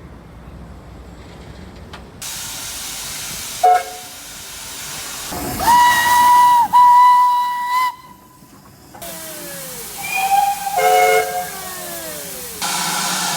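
Steam locomotive whistles over the hiss of escaping steam. A short toot comes first, then a long single-note blast. Near the end there is a chime whistle sounding several notes at once, with falling slurs in pitch just before it.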